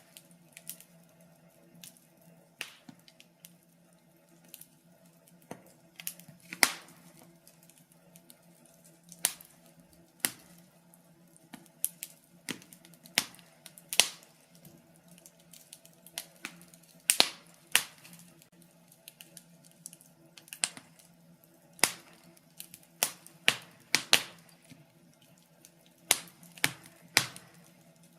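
Wood fire in a fireplace crackling: irregular sharp pops and snaps, about one to three a second and varying in loudness, over a faint steady hum.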